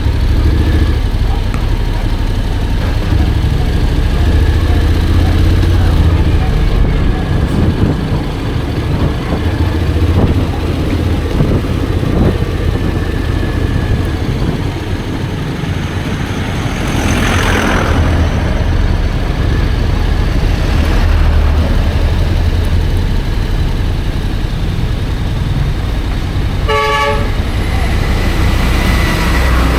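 Steady wind and engine rumble of a Honda X-ADV 750 parallel-twin scooter under way in traffic, with a brief rushing swell about halfway through. Near the end a vehicle horn gives one short toot.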